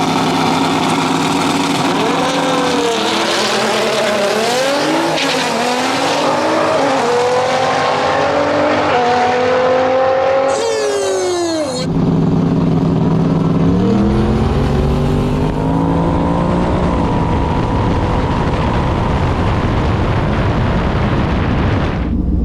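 Drag race cars launching and running at full throttle, the engine pitch climbing, dropping back at each gear shift and climbing again. Near the halfway point the sound changes abruptly, and another engine climbs in pitch at full throttle.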